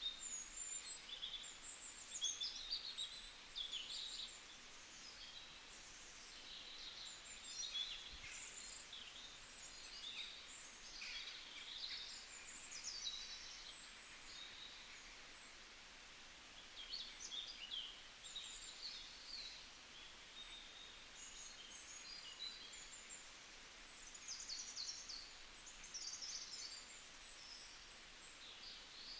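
Small songbirds chirping and twittering, many short high calls overlapping over a faint steady hiss, thinning out for a few seconds now and then.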